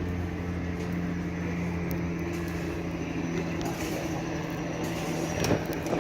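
A steady low mechanical hum, like a running engine or motor, with a couple of short sharp clicks near the end.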